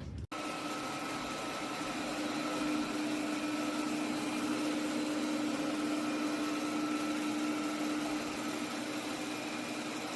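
BPMIO robot vacuum running: a steady whirring motor hum with a constant low tone, cutting in suddenly just after the start.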